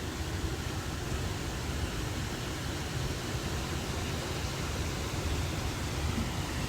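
Steady rushing of river water, an even noise without breaks, heavy in the low end.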